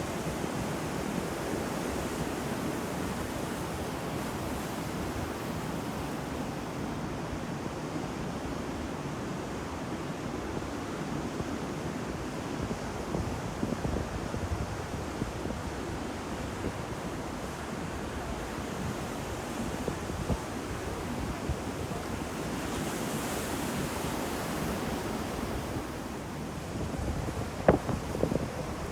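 Ocean waves breaking and washing on a shore, with a continuous surf rush and a few sharper splashes, one near the end.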